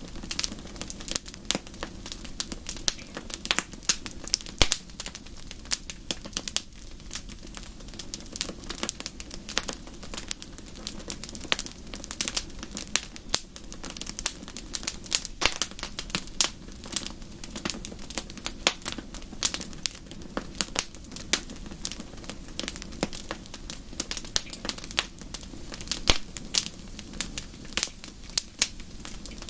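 Wood fire in a fireplace crackling: frequent sharp irregular pops and snaps over a steady low hiss of the burning.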